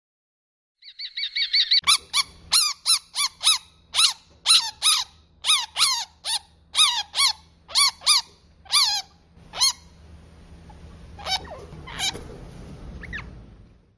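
A bird calling over and over: a quick run of short, high notes, then loud squawks about two a second, each sliding down in pitch, thinning out to a few scattered calls near the end.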